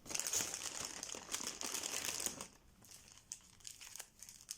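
Packaging crinkling and rustling as it is handled. It is dense for about the first two and a half seconds, then gives way to faint scattered rustles and ticks.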